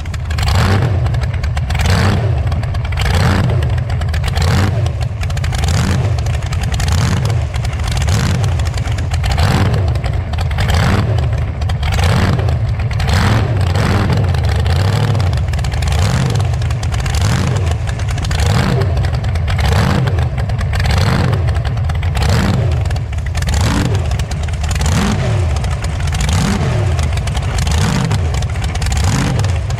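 Hot rod engine running loud through unmuffled exhaust pipes while the car is driven. The sound is heavy at the low end, with a regular pulse about once a second.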